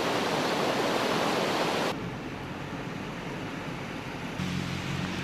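Rushing floodwater, a dense steady rush that drops abruptly to a quieter, duller rush about two seconds in. A low steady hum joins near the end.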